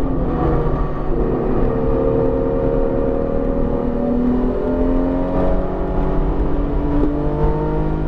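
BMW E46 M3's inline-six engine pulling under load on track, its pitch climbing steadily for several seconds, then dropping about two-thirds of the way in as the revs come down, and starting to climb again near the end. The engine is freshly built and still in break-in, so it is held below 7,000 rpm.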